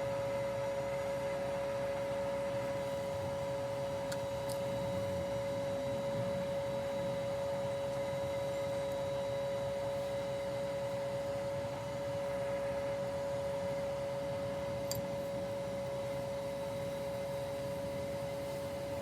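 Steady mid-pitched machine hum at one unchanging pitch with faint higher overtones, over a low mechanical noise bed, with two faint clicks.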